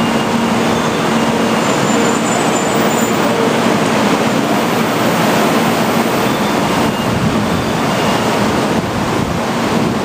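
800 series Shinkansen train standing at the platform: a steady, even noise, with a low hum that fades out about two seconds in.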